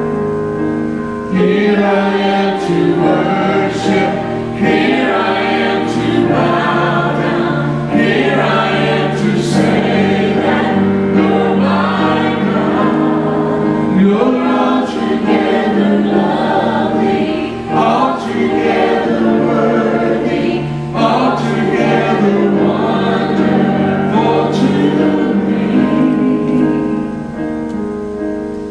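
Choir singing a gospel worship song over steady instrumental accompaniment.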